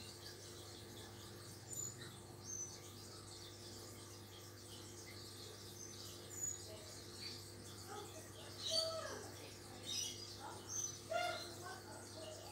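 Birds chirping in short, scattered calls, some sliding quickly down in pitch, growing busier in the second half, over a steady low hum.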